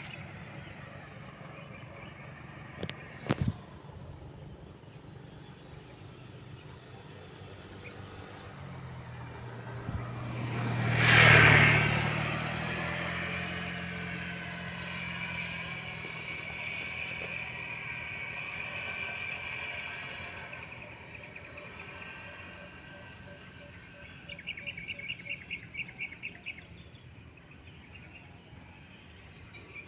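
Insects chirring steadily in a high, pulsing drone, while a motor vehicle passes, swelling up and fading about a third of the way through. A couple of sharp clicks come early, and a short rapid pulsing call rises above the drone near the end.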